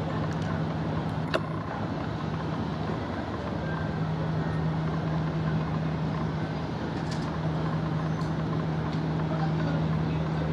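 Steady low engine hum over a constant rumble of background noise, with a single sharp click about one and a half seconds in.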